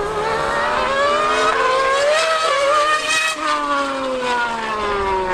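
High-revving racing engines at full throttle in a drag race between a Formula 1 car and a superbike. The engine note climbs steadily for about three seconds, then falls away as they pass.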